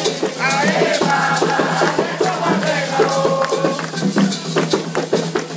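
Candomblé ritual music: voices singing a chant over shaken rattles and other hand percussion, with sharp percussive clicks throughout.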